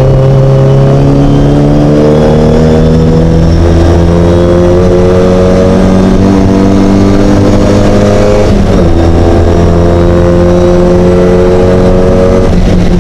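Mini race car's engine under hard acceleration, very loud, its pitch climbing steadily through a long pull. About two-thirds through, the note breaks and drops with a gear change, then climbs again before the throttle comes off near the end.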